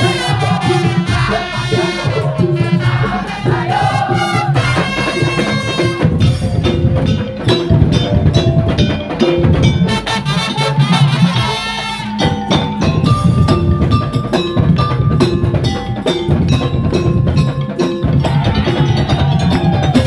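Madurese tongtong (daul) music played live: a driving, steady beat of drums and wooden percussion with a pitched melody line over it.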